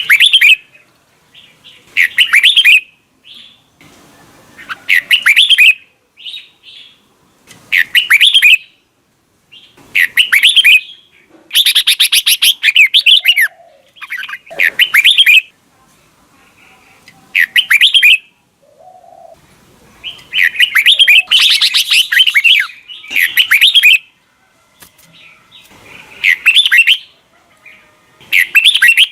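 Red-whiskered bulbul singing: loud, short phrases of rapid chirping notes, repeated every one to two seconds with brief pauses between.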